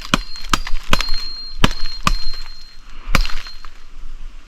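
Dead sticks being broken by hand, with about six sharp cracks in the first three and a half seconds. The wood is very wet and rotten.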